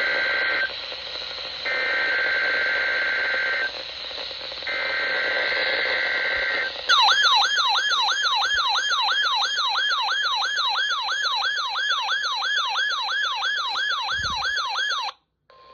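NOAA Weather Radio weekly alarm test. The digital header data tones buzz three times with short gaps, then a warbling siren-like alarm tone sweeps up and down about twice a second and cuts off shortly before the end.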